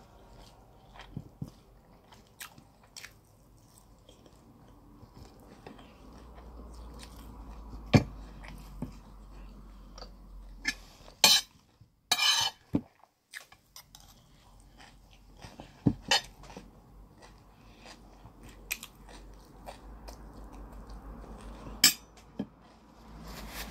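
Close-up chewing and eating sounds from a person eating roast chicken and jollof rice, with scattered sharp clicks and a short clatter of a metal spoon against the plate about halfway through.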